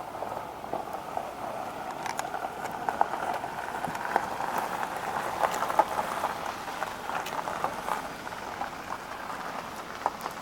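Food sizzling in a pan over the fire: a steady hiss dotted with many small pops, growing louder towards the middle and easing off near the end.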